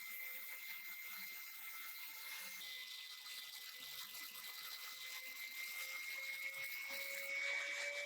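A small electric motor whining steadily, its pitch creeping up slightly near the end.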